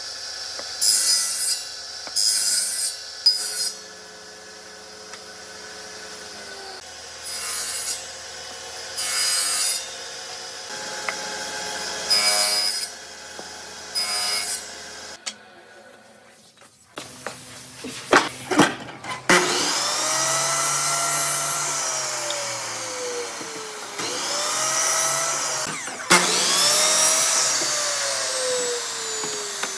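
Woodworking tools on wood. First comes a series of short rasping strokes, each about a second long. After a few clicks, a power tool's motor runs with its pitch jumping up and then sinking slowly, three times over.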